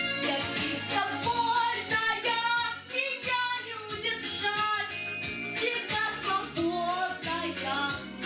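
A female voice singing a pop song with vibrato over a backing track with a steady beat.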